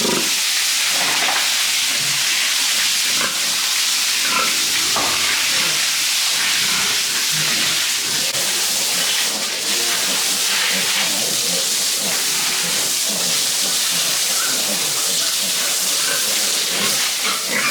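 Pigs grunting, short scattered calls over a steady hissing noise.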